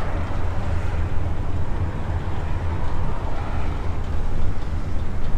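Food truck driving on the road, heard from inside the cab: a steady low rumble of engine and road noise.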